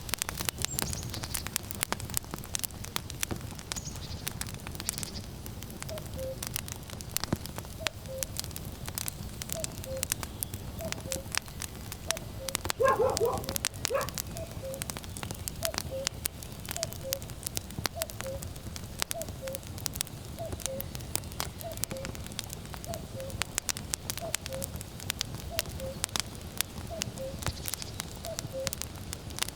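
Wood fire crackling and popping steadily, with a common cuckoo calling its falling two-note "cuck-oo" over and over from about six seconds in. A brief louder call stands out near the middle.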